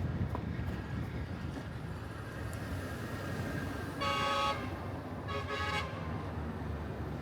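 A vehicle horn sounds two short beeps about a second apart, over a steady low rumble of road and wind noise.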